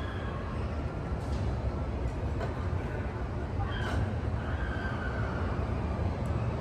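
Steady low rumble with a faint wash of distant voices and a few light clicks.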